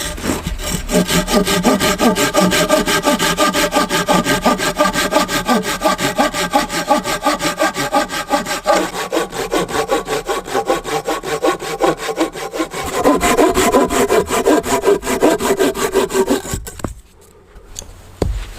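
Hand saw cutting through wood with fast, even strokes, which stop abruptly about seventeen seconds in.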